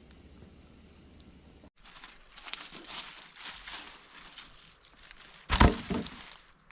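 Crinkly rustling and crunching, then a heavy thud about five and a half seconds in, followed at once by a lighter knock.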